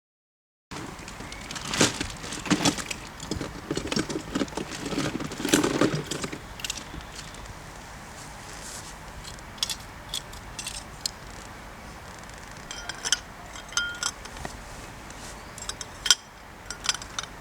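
Glass, ice and metal bar tools clinking and knocking, with a few brief ringing glass tones near the end.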